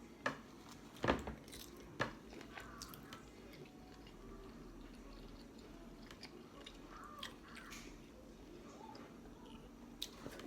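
A person chewing and biting seafood close to the microphone, with three sharp clicks in the first two seconds and softer mouth sounds after.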